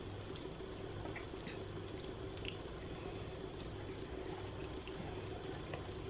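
Faint chewing and mouth sounds of someone eating a fried chicken wing: scattered small clicks over a steady low hum.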